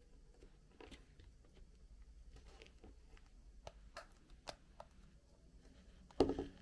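Faint scattered clicks and light taps, with one louder thump near the end.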